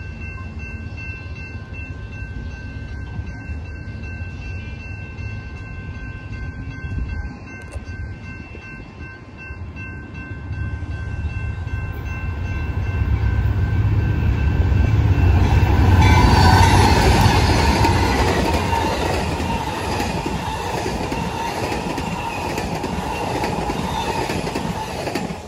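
An Amtrak passenger train of double-deck Superliner cars approaches and passes close by. Its noise builds from about halfway, is loudest a few seconds later, and the steady rush and rumble of the cars on the rails carries on to the end. Before it arrives, a few steady ringing tones sound, fitting the grade-crossing signal bells.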